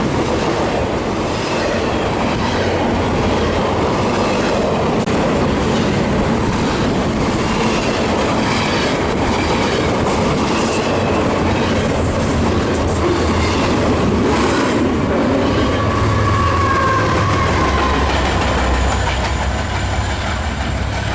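A BNSF freight train's cars rolling past at track side: steady wheel rumble with clickety-clack over the rails and brief, scattered high wheel squeals. A deeper rumble builds in the last few seconds.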